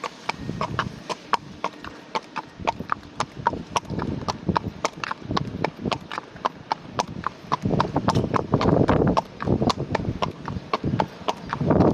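A horse's hooves clopping in a steady walking rhythm on hard ground, about four hoof-falls a second. Wind buffets the microphone with a low rumble over the second half.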